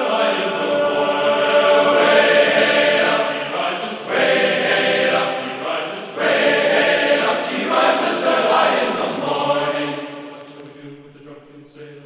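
Background music: a choir singing sustained chords, dropping away about ten seconds in.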